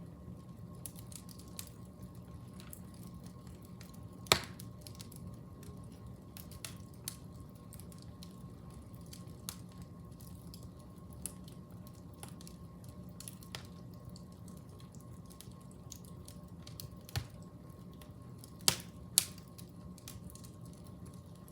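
Fire crackling: scattered small irregular clicks with a few sharp pops, one about four seconds in and three close together near the end, over a low steady rumble.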